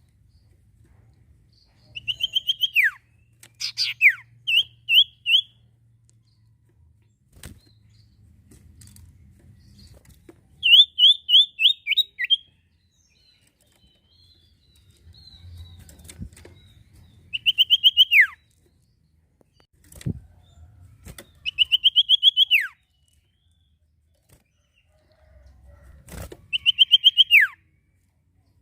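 Sirtu songbird singing in repeated phrases every few seconds. Each phrase is a quick run of high chirps that ends in a long falling slur. A few short knocks fall between the phrases.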